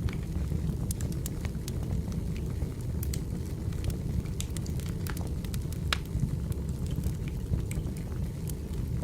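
Wood fire burning: a steady low rumble of flames with irregular sharp crackles and pops of firewood, several a second.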